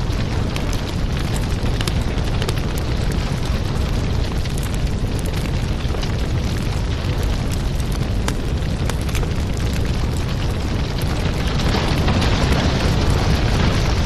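Fire burning in a fireplace: a steady low roar dotted with many sharp crackles and pops, swelling a little louder about twelve seconds in.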